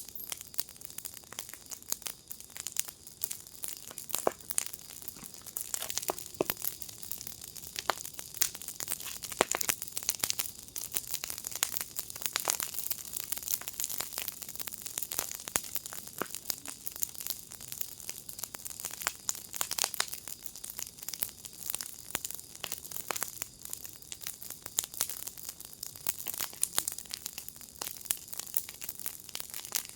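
Wood fire in a fire pit crackling steadily, with dense irregular pops and snaps over a soft hiss of burning.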